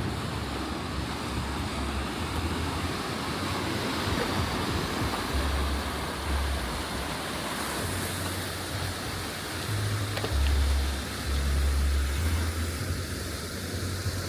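A steady rushing outdoor noise, with wind buffeting the microphone in uneven low rumbles that come more often after about ten seconds in.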